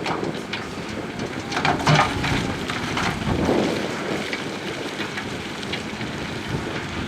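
Heavy earthmoving machinery at work: a low rumble under a steady rush of noise, with rock and gravel clattering and knocking, including a cluster of sharper knocks about two seconds in.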